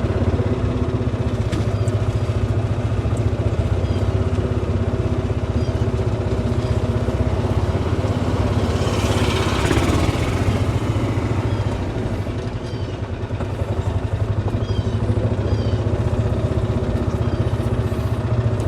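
Golf cart driving along a paved path, its drive motor giving a steady low hum, with a brief rush of noise about nine seconds in.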